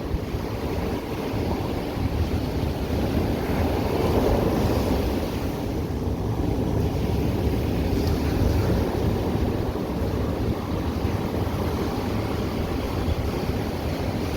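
Ocean surf washing onto the beach in a steady wash, swelling a little about four seconds in and again around eight seconds, with wind buffeting the microphone.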